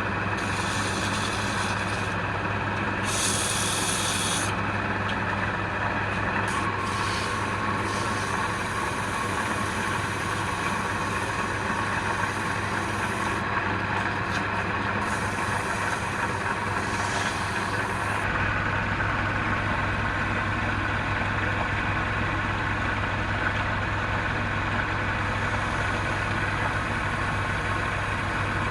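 A wood lathe running with a steady hum, with scraping that comes and goes as the spinning wood is worked for the first eighteen seconds or so. After that only the running lathe is left.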